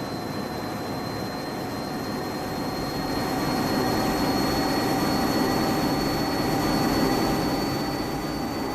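Metra commuter train running: a steady rumble with a constant high whine, swelling louder for a few seconds midway, then easing off.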